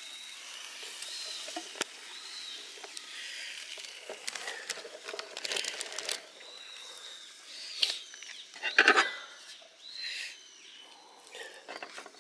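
Birds calling in woodland: short high whistles and chirps scattered through, with a few sharp clicks and a louder noisy burst about nine seconds in.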